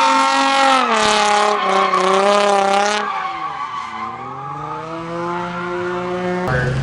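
A drift car running hard at high revs with its tyres squealing for about the first three seconds. Then the squeal stops and the engine note falls and climbs again as the driver lifts off and gets back on the throttle. The sound cuts off suddenly near the end.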